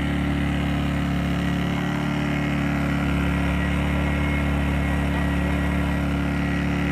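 Powerhorse 2000-watt portable inverter generator's small gas engine running steadily with an even note on its first run, freshly started out of the box.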